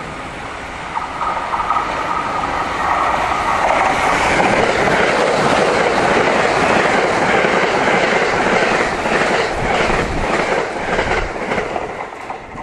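JR West limited express Thunderbird, a 681 series set coupled to a 683 series set, passing at speed. A rushing rumble builds over the first few seconds, stays loud with the clickety-clack of wheels over rail joints, and eases off near the end.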